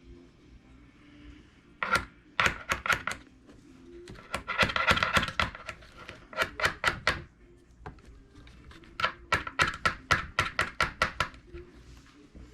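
Rapid sharp clicking in three bursts, several clicks a second, like a ratchet, from small hand tools and hard plastic parts being worked during the reassembly of a Traxxas E-Revo 2.0 RC truck.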